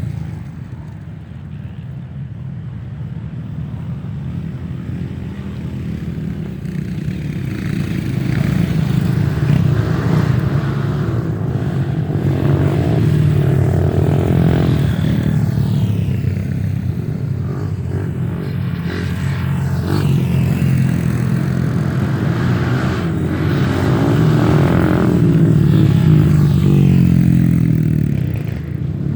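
Off-road dirt bike engines revving and labouring, the pitch rising and falling again and again; the sound grows louder over the first several seconds.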